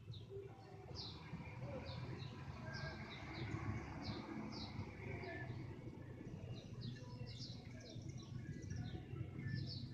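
Small birds chirping faintly: short, high, falling notes about twice a second, over a low rumble.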